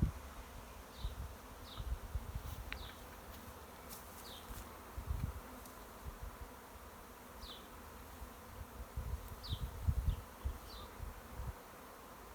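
A swarm of honey bees buzzing steadily in the air, with a dozen short high falling chirps scattered through it and irregular low rumbles underneath.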